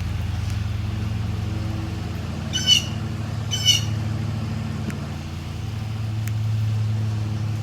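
Blue jay giving two short, harsh jay calls about a second apart, over a steady low hum like an idling vehicle.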